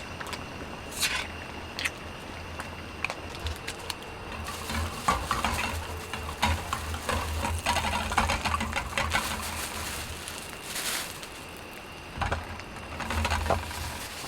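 Food sizzling in a pan with a utensil stirring and scraping against it, a run of clicks and scrapes that is busiest in the middle and again near the end.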